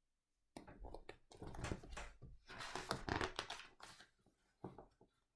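Paper rustling and crinkling for about four seconds as the pages of a picture book are handled and turned.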